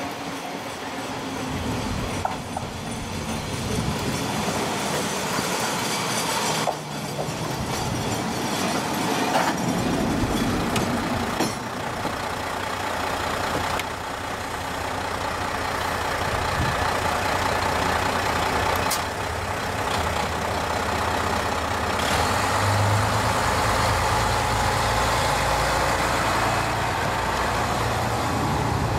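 KiHa 38 and KiHa 37 diesel railcars running under power, a steady low diesel engine note under continuous running noise that slowly gets louder.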